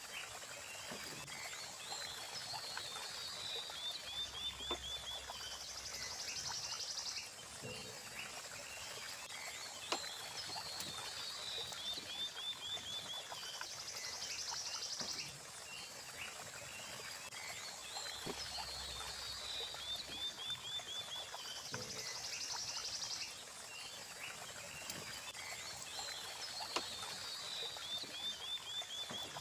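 Frogs and insects calling in a chorus: a hissing buzz followed by a quick run of chirps, recurring every several seconds, over scattered small clicks.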